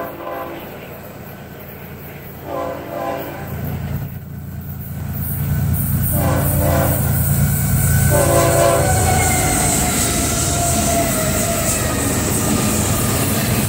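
Florida East Coast Railway freight train approaching: the lead diesel locomotive sounds four blasts of its multi-chime horn. Then the locomotives' diesel engines rumble louder as they pass close by, with a falling whine and the steady noise of wheels on rail.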